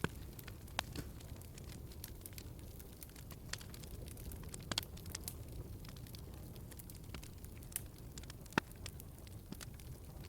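Wood fire crackling in a fireplace: a low steady rumble of flames with scattered sharp pops and snaps, a few louder ones spread across the stretch.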